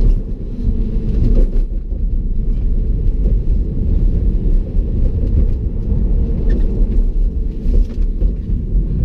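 Loud, steady low rumble of a moving car, with no engine note rising or falling.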